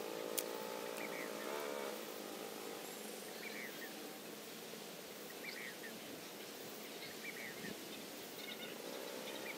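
Outdoor natural ambience: short bird chirps repeating every second or two over a steady hiss of insects and background noise.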